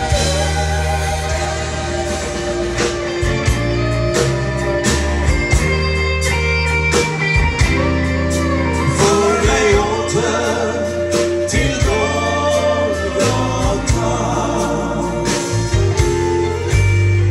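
Gospel band music with no sung words: bass, drums and guitar play an instrumental passage, with a wavering melodic line near the middle.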